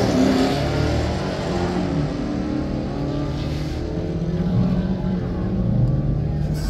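Two cars running down a drag strip side by side, their engines at full throttle, heard from the stands.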